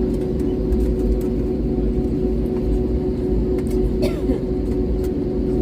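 Airliner cabin noise before takeoff: a steady low rumble from the engines and air system, with a constant mid-pitched hum.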